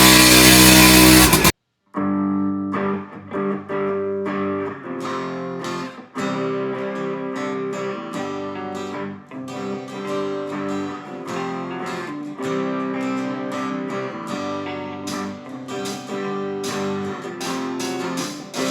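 Guitar music, a plucked and strummed instrumental, starting after a very loud burst of sound that cuts off abruptly about a second and a half in and is followed by a brief silence.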